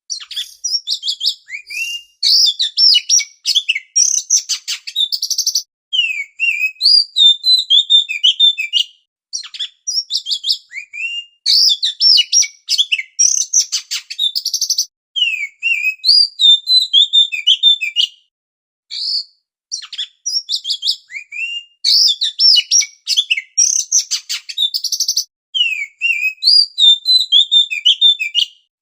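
Oriental magpie-robin (kacer) singing loudly in a lure call. Varied phrases of clear whistles, sweeping notes and fast chattering trills come in bursts of a few seconds, with brief pauses between them.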